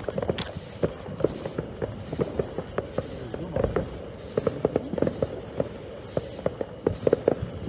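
Fireworks going off across the area: an irregular, unbroken crackle of sharp pops and bangs, several a second, with no single bang standing out.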